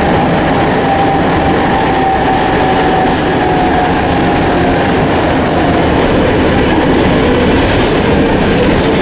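Old Circumvesuviana commuter train running, heard from inside the carriage: a loud, steady rattle and rail noise, with a whine that slowly falls in pitch.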